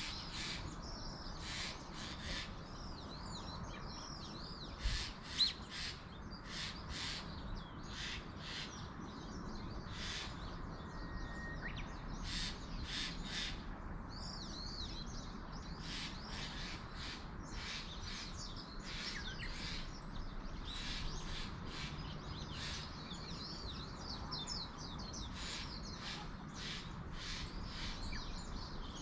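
Wild birds calling over and over on a mountainside, short high calls coming in quick runs throughout, over a steady background hiss. Two brief low knocks come about five seconds in.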